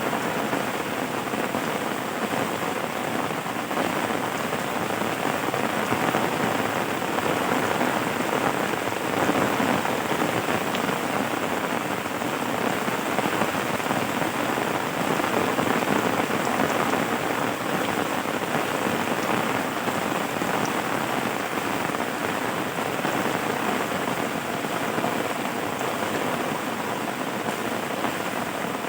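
Steady rainfall, an even wash of many drops with no breaks or single events standing out.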